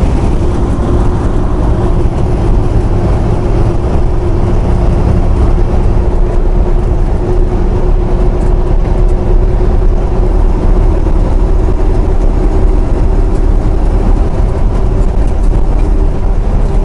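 Semi-truck diesel engine and road noise heard inside the cab while cruising, a loud steady rumble with a constant engine drone.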